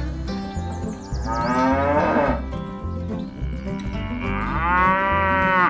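A cow mooing twice, each moo a long drawn-out call, over background music with a steady low beat.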